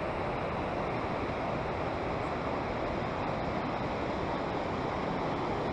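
Steady rush of a creek and waterfall below, an even wash of water noise that holds constant without breaks.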